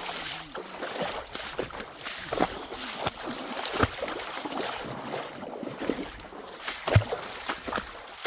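Footsteps splashing and squelching through wet, muddy ground, with irregular knocks. The sharpest knocks come just before four seconds in and at about seven seconds.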